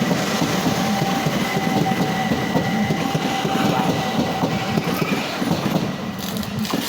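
Southeastern Class 375 electric multiple unit passing through the station at speed, its wheels clattering over the rail joints under a steady whine.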